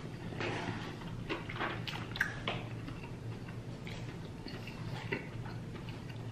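Someone eating: chewing and mouth smacks with scattered short clicks, over a low steady hum.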